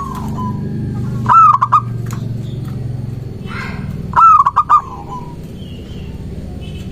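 Zebra dove (perkutut) singing its cooing song twice: each phrase opens with a swooping note and breaks into a few quick stuttering coos. A steady low hum runs underneath.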